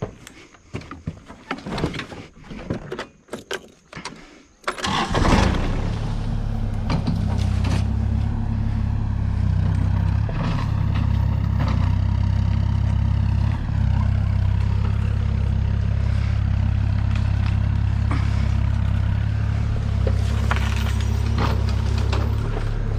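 A few seconds of scattered clicks and knocks, then about five seconds in a tractor engine starts and settles into steady, low-pitched running.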